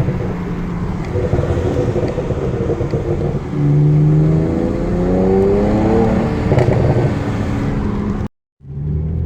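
BMW 335i's N54 twin-turbo straight-six revving up and falling back several times, its performance exhaust crackling and popping on the overrun: the tuned burble of an MHD Stage 1 map. The sound cuts out for a split second near the end, then the engine picks up again.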